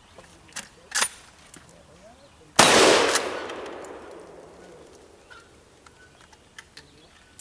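A single loud gunshot about two and a half seconds in, its echo dying away over a couple of seconds. A few fainter sharp clicks come before it.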